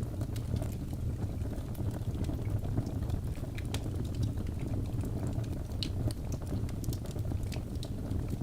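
Birch logs burning in a fireplace: a steady low rumble of the flames with frequent sharp crackles and pops scattered irregularly throughout.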